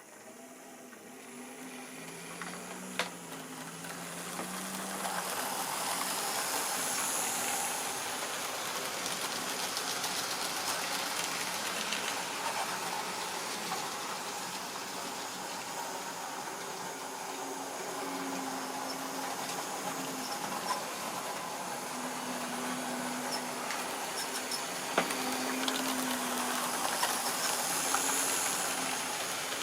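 Model railway train running on the track. The wheels rattle along the rails with scattered clicks and a low motor hum that wavers in pitch. The sound grows louder over the first several seconds as the train comes closer, then runs on steadily.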